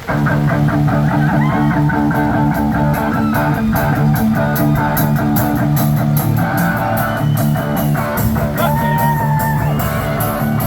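A rock band playing live, coming in all at once on the opening of a song: distorted guitar chords held over bass, with a steady beat ticking on the cymbals from about two seconds in.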